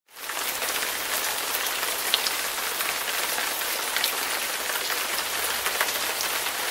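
Steady rain falling, a dense even hiss with scattered sharp drop ticks, fading in quickly at the start.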